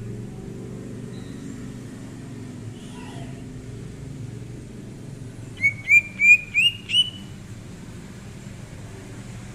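Cucak ijo (green leafbird) calling: a few faint chirps, then about halfway through a quick run of five loud rising whistled notes. A steady low hum runs underneath.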